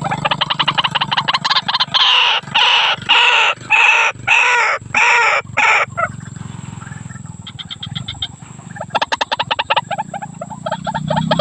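Female white-breasted waterhen (ruak-ruak) calling to a male, the call used to lure males. It starts with a fast run of pulsed notes, then gives about eight loud, separate rising-and-falling calls, and after a short lull returns to quicker pulsed notes.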